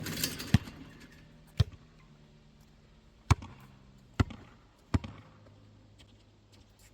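A basketball bouncing on a hard court: five sharp, separate thuds at uneven intervals, the last about five seconds in, after a short noisy rush at the very start.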